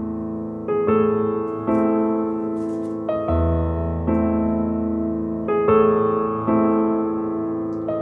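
Background music: a slow, gentle piano piece of sustained chords, changing about once a second.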